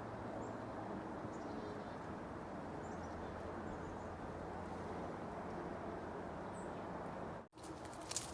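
Steady outdoor background noise with a low hum and a few faint, short bird chirps. It cuts out abruptly near the end, and a few sharp clicks follow.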